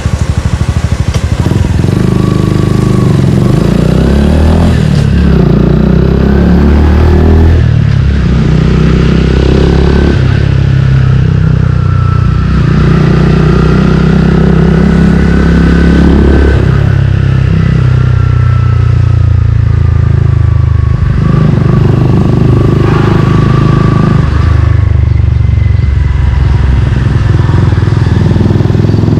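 Suzuki Gixxer 155's single-cylinder engine through an aftermarket Yoshimura exhaust, loud while riding, its pitch climbing and dropping back several times as the rider works the throttle and gears.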